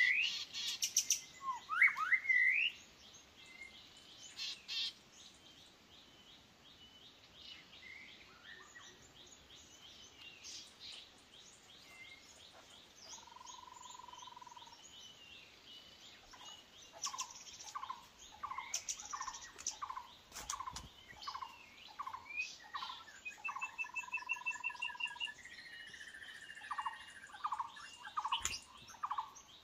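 Songbirds calling in forest. A few loud rising whistles come near the start, then a quieter spell with scattered notes and one held whistle. From about halfway a short whistled note repeats about twice a second, with a brief high trill in among it.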